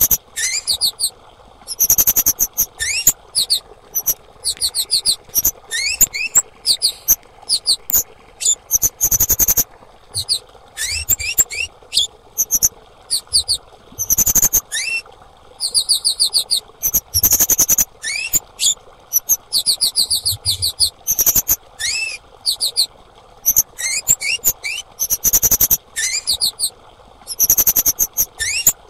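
Female kemade calling over and over: bursts of rapid, very high trilled chirps, each opened by a short rising note, with brief pauses between bursts. It is a lure call, the kind played to stir silent kept kemade into singing.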